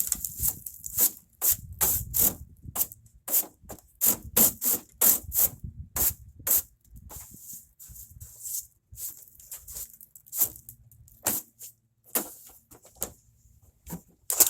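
Repeated quick scraping or brushing strokes, about two or three a second, as debris is swept and scraped out of a truck bed.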